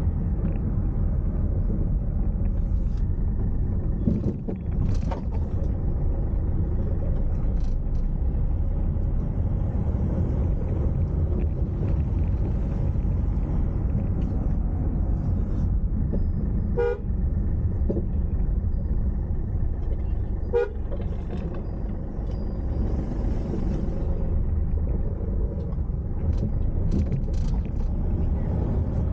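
Car driving along a road, with a steady low rumble of engine and tyres. Two short horn toots sound in the second half, a few seconds apart.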